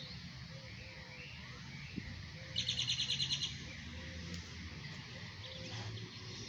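A small bird sings a fast trill of about ten high notes, about two and a half seconds in and lasting just under a second, over a low steady outdoor background hum.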